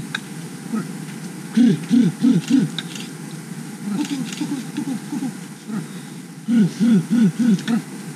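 Low hooting calls repeated in bouts of three to five notes, about three a second, each note rising and falling in pitch, from an animal in the forest.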